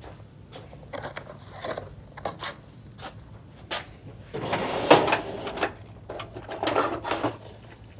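Hand tools clinking and clattering as a wrench is searched for and picked out, with a louder rattling stretch about halfway through.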